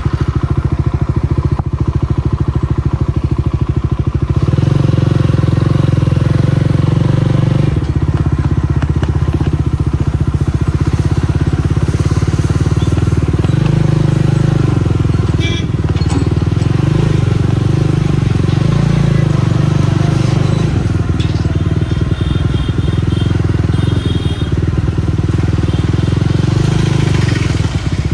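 Jawa 42 Bobber's single-cylinder engine running just after starting. Its note steps up about four seconds in, then rises and falls with the throttle as the bike rides.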